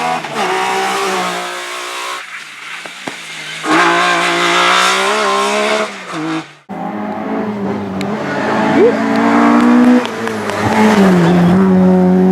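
Rally car engines at high revs, the note rising and falling in loudness. An abrupt cut about six and a half seconds in switches to another car's engine running hard.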